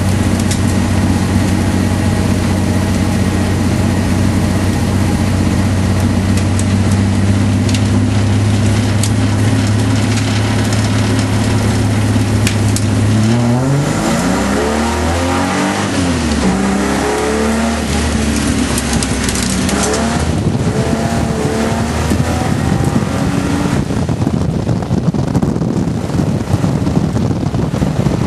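Holden VP Commodore's 3.8-litre V6 engine heard from inside the cabin, running at steady revs. About halfway through, the revs fall and rise several times through gear changes for a corner, then settle again. Wind and road noise grow near the end.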